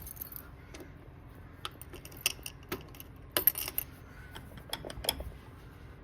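Scattered light metallic clicks, knocks and rattles, with a jangle of keys, from the tractor's controls being handled.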